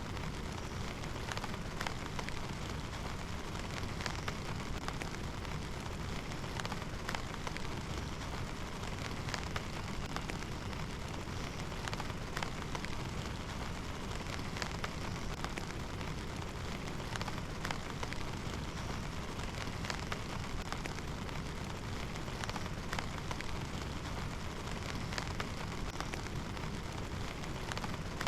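Steady heavy rain, with many separate drops ticking sharply on a nearby surface.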